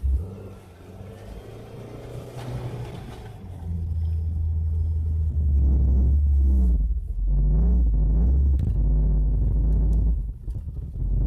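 1996 Chevrolet Cavalier's four-cylinder engine pulling away with a heavy low rumble inside the cabin, quieter for the first few seconds and building from about three seconds in. The engine note rises twice near the end. This is the engine the owner says doesn't run properly.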